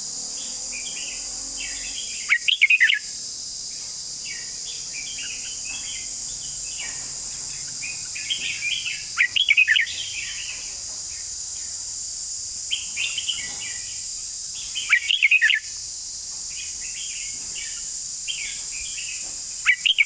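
Red-whiskered bulbul singing: four loud, bubbling whistled phrases about six seconds apart, with softer chirping between them. A steady high hiss runs underneath.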